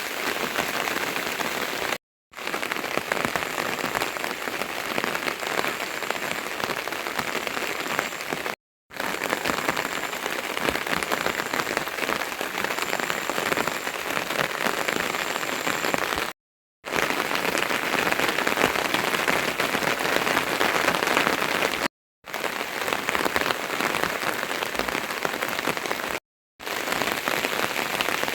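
Steady rain falling, a dense even patter, broken five times by brief dropouts to silence where clips are cut together.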